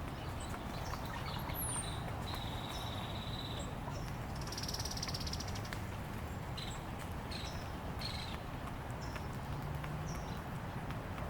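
Small songbirds calling: scattered high chirps, a long even trill about two seconds in and a buzzier trill near the middle, over a steady low outdoor rumble.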